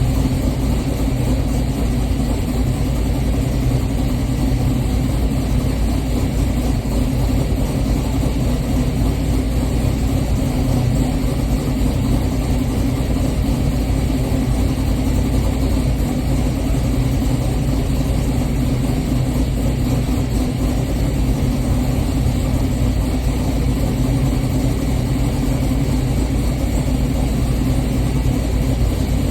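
6.0-litre LS V8 in a G-body Cutlass idling steadily while warming up after a cold start.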